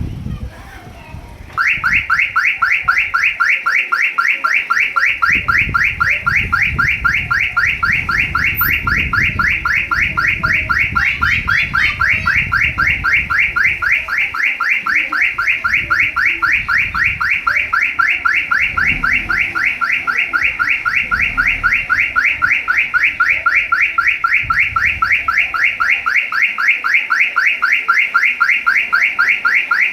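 Car alarm sounding: a loud electronic chirp rising in pitch, repeated several times a second without a break, starting about a second and a half in.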